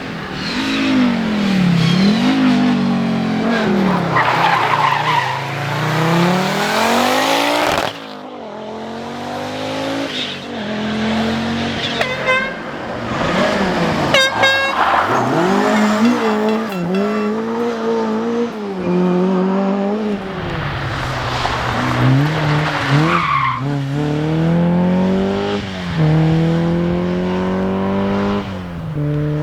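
Rally car engines at full throttle, revving up and dropping back through quick gear changes, with the sound shifting abruptly about eight seconds in. Two rapid runs of sharp exhaust pops come about halfway through.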